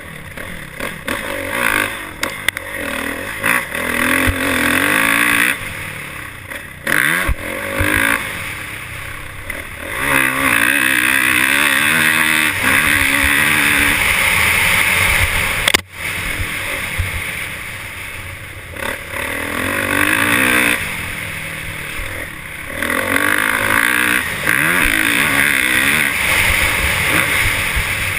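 Motorcycle engines revving up and down, with loud wind-like noise over them.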